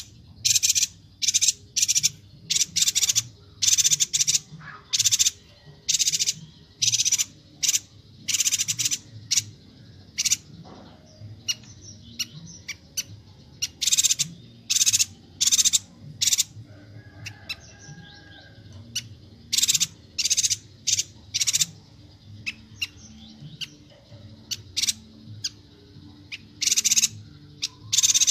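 A yuhina (yuhina kalimantan) calling rapidly: short, sharp high-pitched notes repeated in quick runs, a little sparser in a couple of spells.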